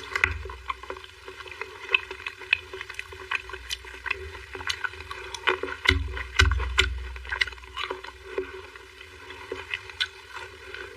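Close-up eating sounds: wet mouth smacks and clicks while chewing soft mousse cake and jelly, with a couple of low thuds about six seconds in.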